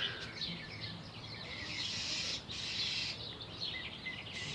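A bird giving repeated short chirping calls, the agitated calls of a bird mobbing cats near its tree.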